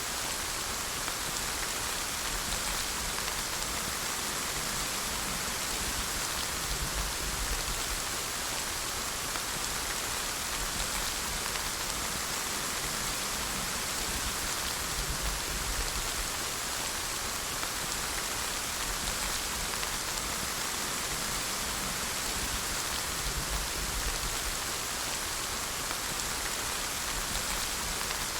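Steady rain falling, an even hiss of many drops on surfaces without a break.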